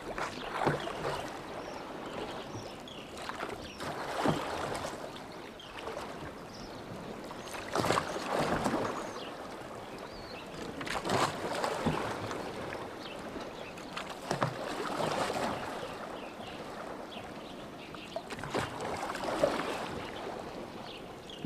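Oars of a rowboat dipping and pulling through lake water, a swishing splash with each stroke, about one stroke every four seconds, with short knocks at the start of several strokes.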